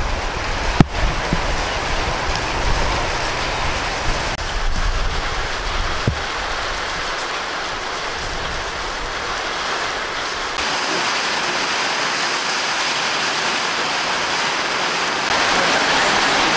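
Heavy rain falling: a steady hiss that steps louder about ten seconds in and again near the end. A low rumble underlies the first few seconds, and there is one sharp knock about a second in.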